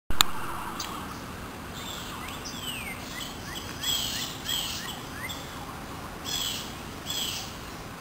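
Wild birds singing: a run of quick downward-sliding notes, then four short phrases spaced about a second apart, each ending in a falling note, over a steady background hiss. A sharp click as the sound cuts in at the very start.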